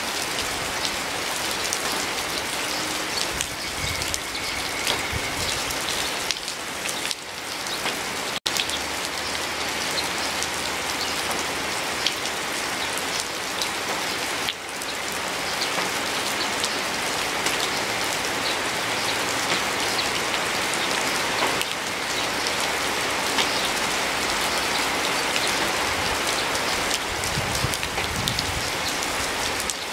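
Steady rain, with many close individual drops ticking through the even hiss of the downpour. The sound cuts out for a split second about eight seconds in.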